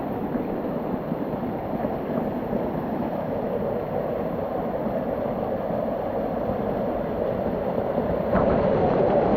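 Water of a small waterfall rushing and splashing steadily, a little louder near the end.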